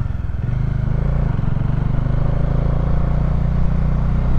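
Bajaj Dominar 400's single-cylinder engine running as the motorcycle is ridden along, getting a little louder about a second in.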